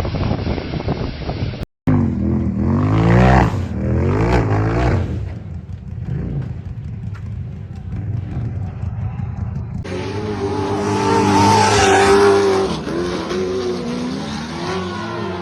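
Off-road 4x4 engines revving hard, the pitch climbing and dropping again and again, with a brief dropout about two seconds in where the footage cuts to another clip and a second change of clip about ten seconds in.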